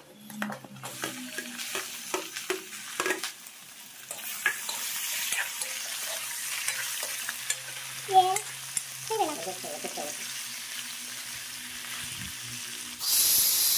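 Raw chicken scraped off a steel plate into a hot aluminium kadai and stirred with a metal spoon: the spoon knocks and scrapes over the steady sizzle of the meat frying in oil with onions. Near the end a loud steady hiss of steam from a pressure cooker sets in.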